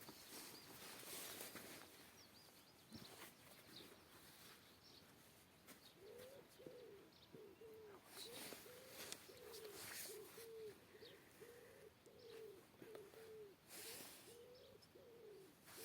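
Faint, low bird calls in a steady series of short arched notes, about two a second, starting about six seconds in, with scattered high chirps of small birds.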